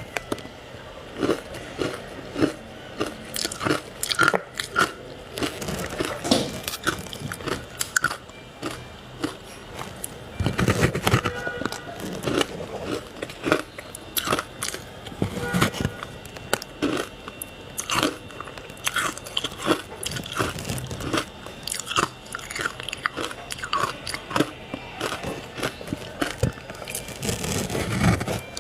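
Ice being bitten and chewed, a steady run of irregular sharp crunches, sometimes several in quick succession.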